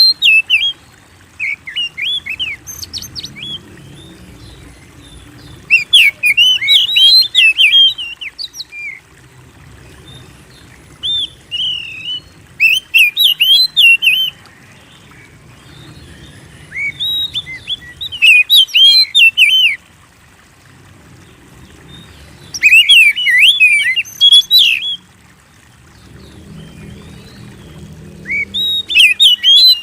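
Oriental magpie-robin (kacer) singing vigorously in bursts of rapid, high chirps and whistles, a burst every few seconds, with a faint low rumble in the gaps.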